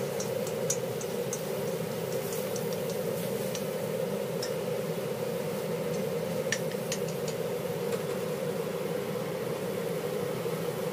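Pork pieces frying in oil in a wok, with scattered small pops and clicks from the spattering oil and the chopsticks stirring, over a steady hum.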